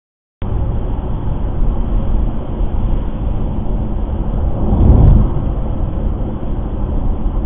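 Steady low rumble of a car driving, heard from inside the car through a dash camera, starting after a brief gap of silence. A louder low rumble swells briefly about five seconds in.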